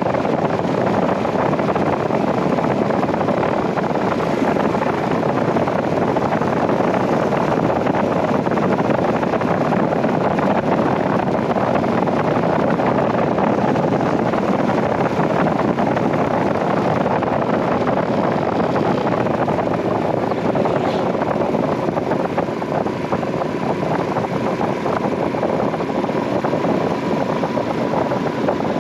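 Royal Enfield Himalayan 411's single-cylinder engine running at a steady cruising speed, mixed with a steady rush of wind and road noise. The loudness dips slightly about two-thirds of the way through.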